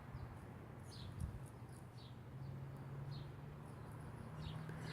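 Faint, short, high bird chirps repeated about once a second over a low steady hum.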